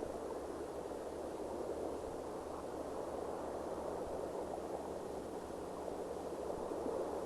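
Steady soft rushing noise with a faint low hum underneath and no distinct events.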